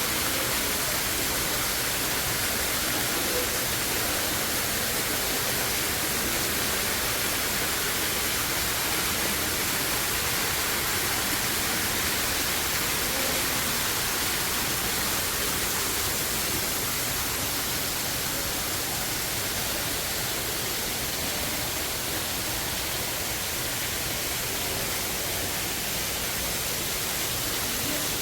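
Steady, even rushing hiss with no change in level.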